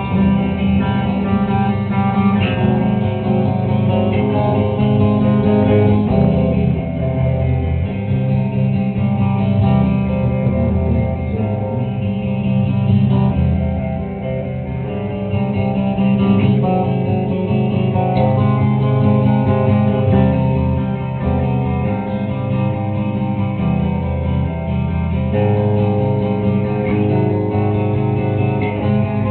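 Guitars played live in a slow instrumental passage with no vocals, sustained chords changing every few seconds.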